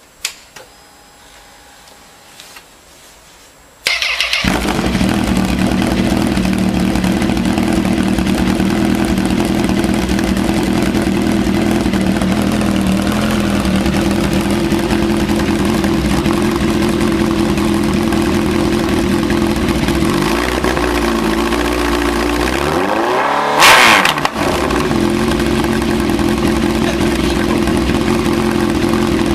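Honda CB1000R inline-four engine starting about four seconds in, then idling through a bare exhaust pipe with no silencer. About two-thirds of the way through, one rev rises and falls back to idle, and its peak is the loudest moment.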